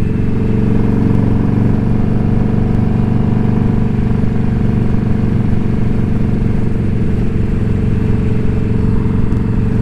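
Indian Scout Bobber's V-twin engine and exhaust running at a steady cruising speed, the pitch holding even, over a low rumble of wind and road noise.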